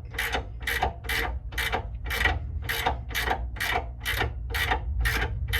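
Hand ratchet wrench being cranked on a rear shock mounting bolt, its pawl rasping with each back-swing at an even pace of about four strokes a second.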